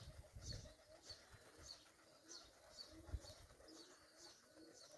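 Faint domestic pigeons cooing, with a small bird's short high chirps repeating about twice a second and a soft thump about three seconds in.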